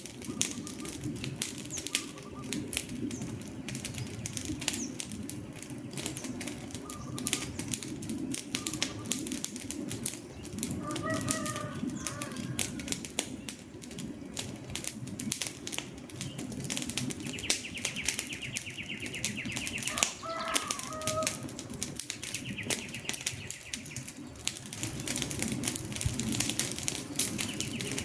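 Wood fire crackling and popping continuously over a low rumble of burning logs. A few short bird calls sound faintly behind it.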